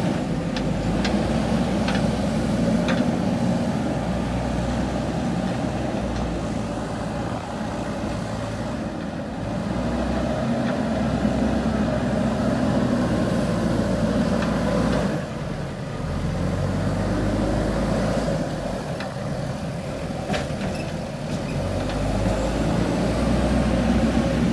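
JCB 3DX backhoe loader's diesel engine running under changing load while it digs and loads soil, the engine note rising and easing off, with a few sharp clicks in the first few seconds.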